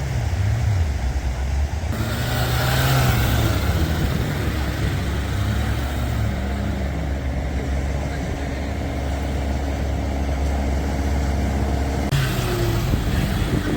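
Off-road 4x4 vehicle engine running with a steady deep rumble, its pitch shifting a little as it is driven. The sound changes abruptly about two seconds in and again near the end.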